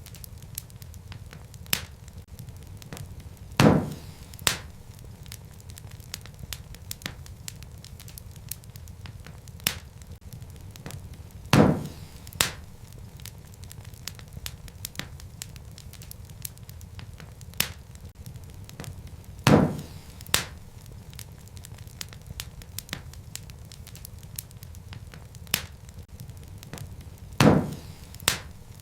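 Wood fire crackling in a fireplace: scattered small crackles over a low steady rumble, with a loud pop about every eight seconds, each followed by a smaller pop a moment later.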